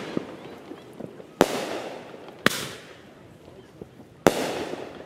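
Aerial firework shells bursting: three sharp booms, the first two about a second apart, then a longer gap before the third. Each boom is followed by a fading echo.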